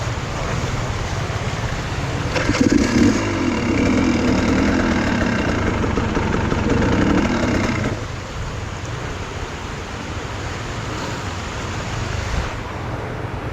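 Off-road enduro motorcycle engine running. It revs up harder from about two seconds in, holds there for several seconds, then drops back to a lower, steadier running.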